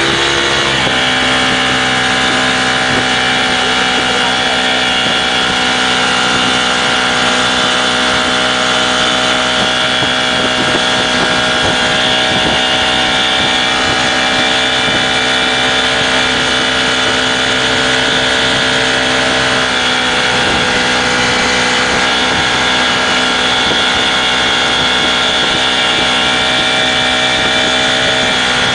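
Speedboat engine running at a steady speed under way, with wind on the microphone. The engine's pitch shifts about a second in, then holds steady.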